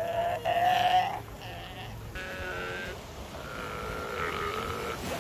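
Galápagos sea lions calling in a colony: three drawn-out, wavering bleat-like calls one after another, the first the loudest.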